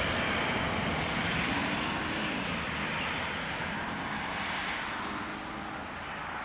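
Freight train rolling past and receding, a steady rumbling noise that slowly fades.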